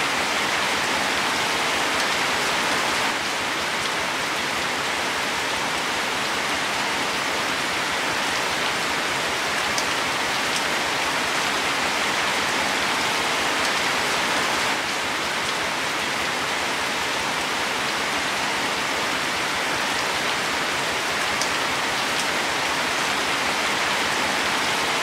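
Steady rain falling on leafy plants: an even patter with the odd single drop standing out.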